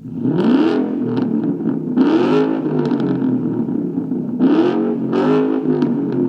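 A car engine with an aftermarket performance exhaust is revved in four quick throttle blips. Each blip rises sharply in pitch and drops back to a steady idle.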